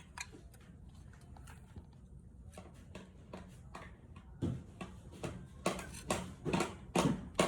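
Cut aluminium profile pieces knocking and clacking against each other and the bench as they are handled and fitted at a mitred corner. There are light scattered taps at first, then from about four seconds in a run of louder, irregular knocks, roughly two a second.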